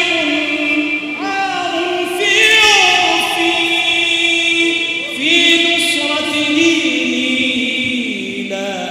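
Arabic Islamic nasheed sung by voices without instruments, in a choir-like texture. Long held, ornamented notes slide from pitch to pitch.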